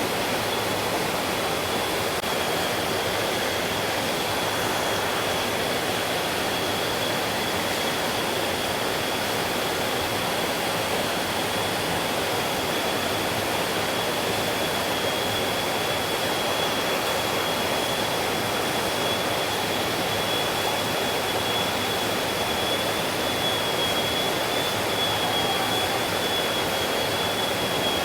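Mountain stream flowing over rocks: a steady, even rush of water. A thin, steady high tone runs through it the whole time.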